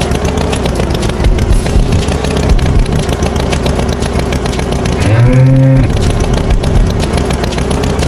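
A bull moos once, a low call of under a second about five seconds in, over the steady running of a cartoon farm tractor's engine.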